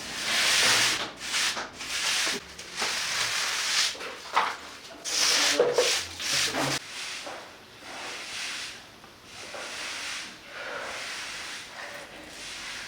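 Plastering trowel scraping cement render across a wall in repeated rough strokes, louder in the first half and softer later.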